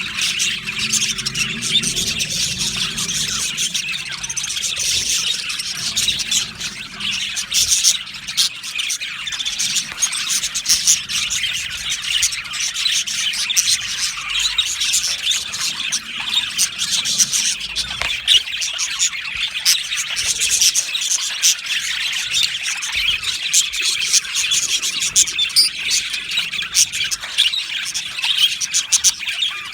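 A flock of budgerigars chirping and chattering together, many short overlapping warbles and squawks in a continuous din.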